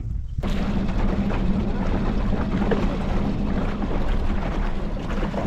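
Small boat's outboard motor running steadily at trolling speed, a low hum mixed with wind and water noise, coming in abruptly about half a second in.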